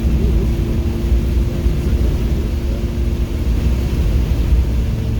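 Car engine running at steady revs on the wet race track, a held drone over a heavy low rumble of road and tyre noise.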